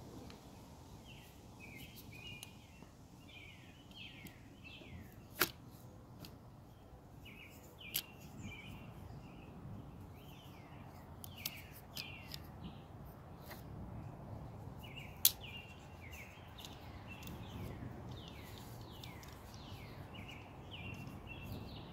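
A songbird singing short phrases of quick, falling whistled notes, again and again with brief pauses, over a soft low rumble. Three sharp clicks stand out as the loudest sounds, about five, eight and fifteen seconds in.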